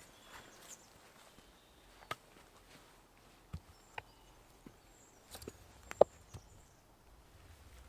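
A handful of light, separate knocks and clicks of firewood being handled during wood processing, the loudest about six seconds in.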